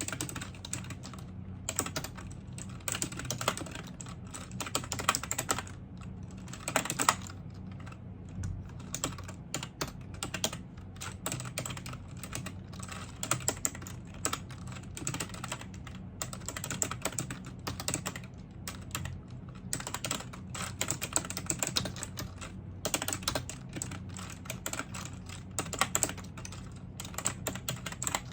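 Continuous typing on a computer keyboard: a dense run of key clicks broken by a few brief pauses, over a faint steady low hum.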